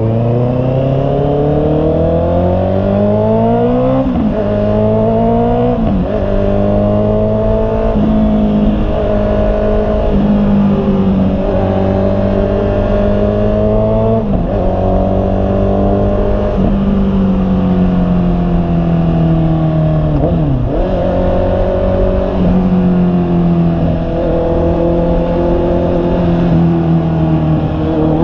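Honda CB650R's inline-four engine pulling under acceleration, its pitch climbing and then dropping sharply at each gear change several times over, before settling into a steadier cruise.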